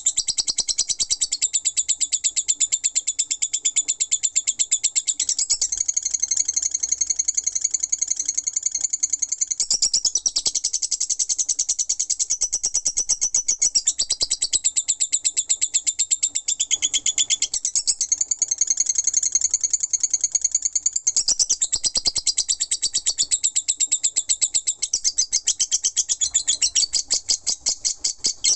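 Lovebird ngekek: one long, unbroken run of rapid, high-pitched chattering chirps, its pattern shifting every few seconds without a pause.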